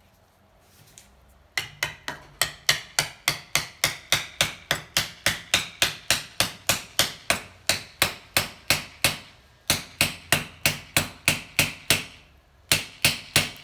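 Rapid hammer blows on metal, about three to four a second with two short breaks, each strike ringing briefly: hammering wedges in to prise a seized cylinder off a Honda C70 engine.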